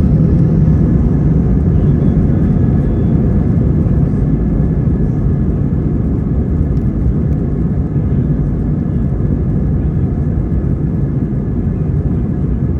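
Airbus A320 engine and airflow noise heard inside the passenger cabin: a steady, loud, low rumble.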